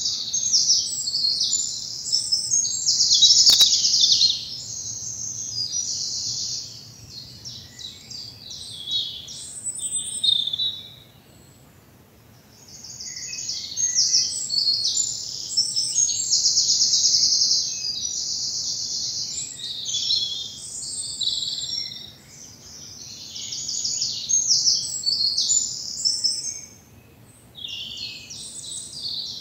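Woodland songbirds singing at dawn: loud, rapid high trills and warbled phrases from a close bird, in long runs with a short lull about a third of the way through and another near the end, over faint low woodland background noise.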